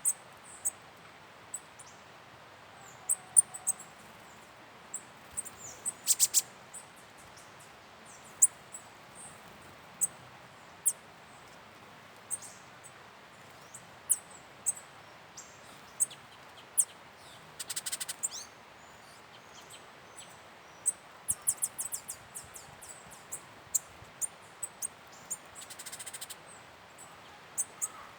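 Small forest birds calling with short, very high chirps scattered throughout, broken by a few quick chattering runs.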